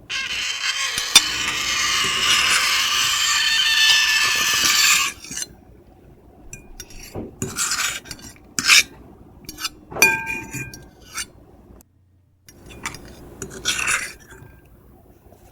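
Metal fork and knife scraping across a plate. A long continuous scrape with a sharp clink in it runs for about five seconds, then gives way to a series of short separate scrapes and clinks.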